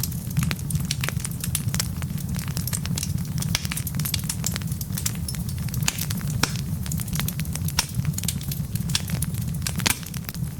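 Wood fire burning in a fireplace, crackling steadily with frequent irregular sharp pops over a low steady rumble of the flames.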